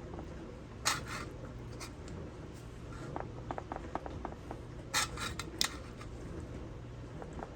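A spoon scraping and tapping as chicken pie filling is spooned into small pie crusts: a few short scrapes about a second in and again around five seconds in, with light clicks in between, over a faint steady low hum.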